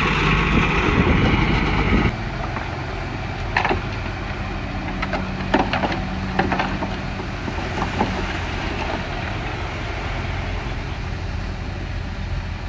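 Bulldozer's diesel engine running steadily, with a few sharp metallic knocks. A louder, hissier sound in the first two seconds cuts off abruptly.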